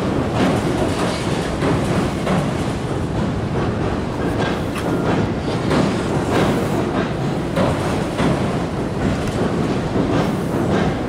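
Tobu Railway electric train running across a steel railway bridge, a continuous rumble with rapid clacking of wheels over the rail joints.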